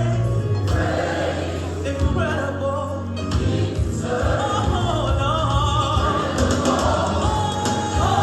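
Gospel singing by a choir of voices over a steady low instrumental accompaniment.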